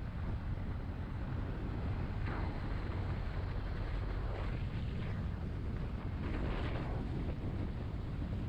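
Wind buffeting a GoPro Hero 7's microphone during a road ride in traffic. It is a steady low rumble, with several brief louder rushes of noise in the middle.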